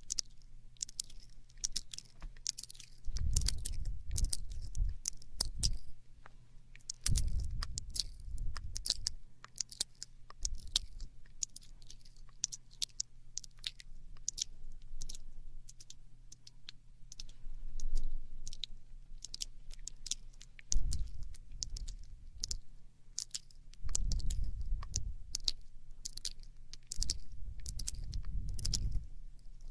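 ASMR mouth sounds close to the microphone: a rapid run of wet clicks and smacks, with several stretches of low rumble of a second or two each.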